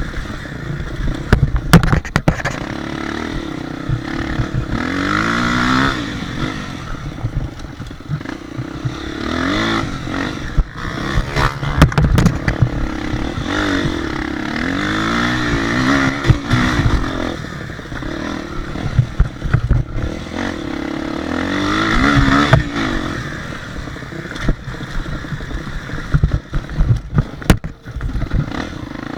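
Motocross dirt bike engines revving up and down, the pitch rising and falling again every few seconds, with frequent sharp knocks and clatter.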